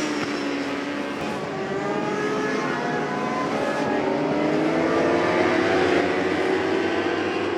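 Endurance superbike engines running at high revs on track. The pitch drops right at the start, then climbs steadily as a bike accelerates from about two seconds in, and eases off near the end.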